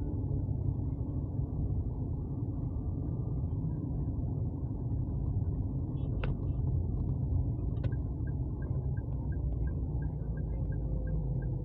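Steady road rumble from a moving vehicle, with a couple of sharp clicks partway through. From about two-thirds of the way in, a regular light ticking sets in, roughly three a second.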